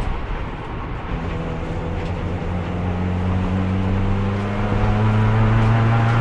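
Race car engine, held in fourth gear, pulling slowly out of a lull: after about a second of quieter running the engine note rises steadily and gradually in pitch and loudness, with road and tyre noise underneath. The slow climb in revs comes from accelerating in a tall gear, the only one the worn-out transmission will hold.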